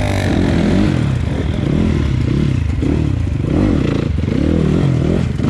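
Enduro dirt-bike engine revving, its pitch rising and falling again and again in quick swells.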